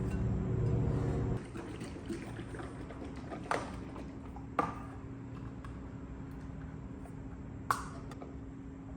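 Background music that stops suddenly about a second and a half in, followed by a low steady hum of room tone with three short sharp taps, the third coming near the end.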